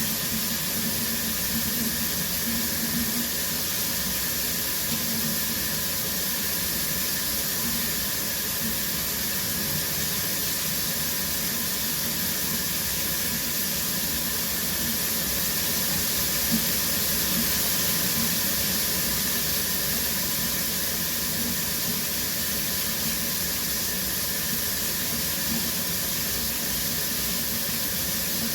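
Shower spray running steadily, water falling in an even hiss.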